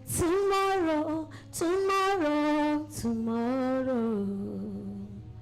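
A woman singing a slow, wordless melody in three long held phrases, each ending on a step down in pitch.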